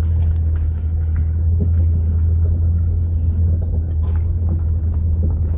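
Steady low rumble of a vehicle driving, heard from inside the cab: engine and road drone with a few faint ticks.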